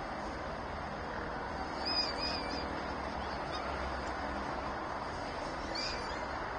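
Two short, wavering high-pitched bird calls, one about two seconds in and a briefer one near the end, over a steady background rush.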